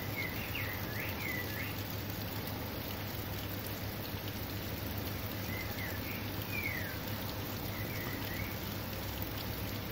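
Steady rain falling during a thunderstorm. A bird chirps in two short bursts, once near the start and again in the second half.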